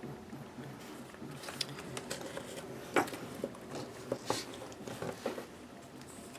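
Handling noise from a handmade paper junk journal: scattered light taps, clicks and soft paper rustles as it is held and turned, over a faint steady hum.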